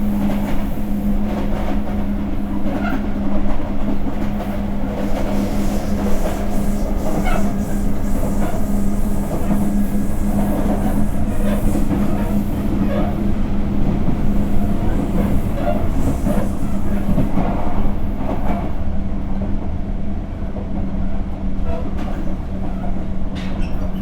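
Sotetsu 8000 series electric train running at speed, with its wheels clicking over rail joints over a steady low hum and rumble.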